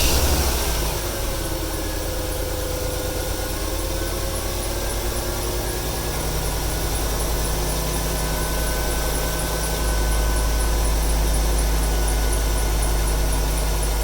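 Ford 300 cubic-inch straight-six running at idle just after starting, with a squeaky serpentine belt whistling over it, the belt damp from rain. The engine gets a little louder about ten seconds in.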